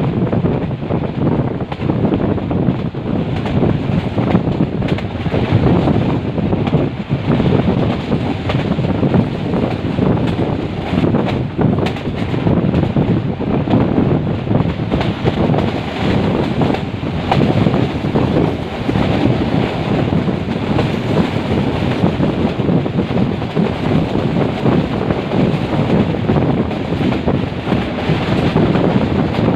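Moving metre-gauge passenger train: a steady rumble of the running train, with wind buffeting the microphone.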